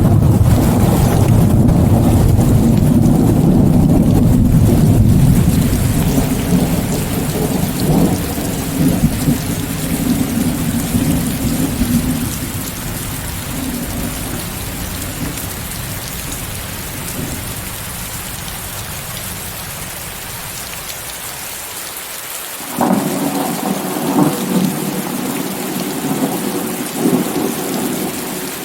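Rainstorm with thunder: a long, loud rumble of thunder fades away over the first dozen seconds, leaving the steady hiss of heavy rain. A second roll of thunder breaks in about 23 seconds in and rumbles on to near the end.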